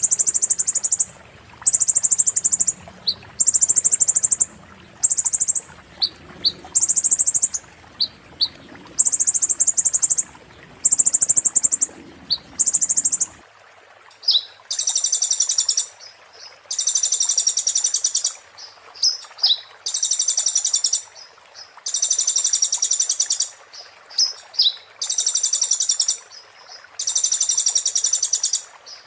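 Kolibri ninja (sunbird) singing in the 'muntah beling' style. It gives very high, dense, rapid trill phrases about a second long, repeated every couple of seconds, with short sharp chips between them.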